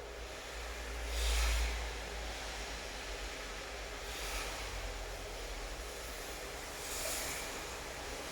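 Steady rain hiss with three brief swells of louder hiss, about three seconds apart, and a low rumble underneath.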